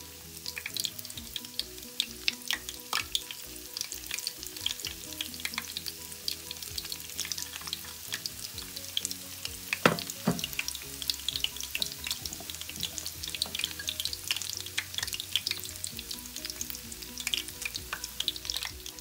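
Egg-coated beef kababs deep-frying in hot oil in a pan: a steady sizzle full of sharp crackles and spits as the drizzled egg fries into a lacy crust, with one louder pop about halfway through.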